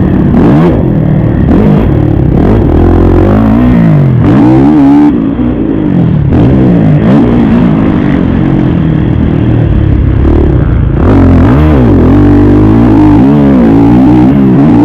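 Kawasaki KX450 dirt bike's single-cylinder four-stroke engine revving up and down over and over as it is ridden hard around a motocross track, the throttle opening and closing every second or so.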